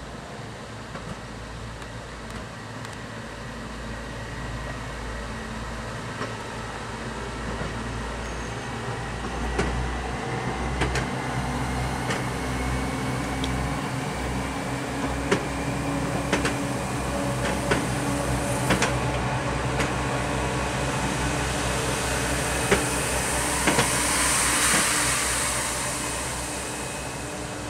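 Cog railway train running: a steady motor hum and whine that slowly grows louder, then eases off near the end, with scattered clicks and knocks and a brief hiss a few seconds before the end.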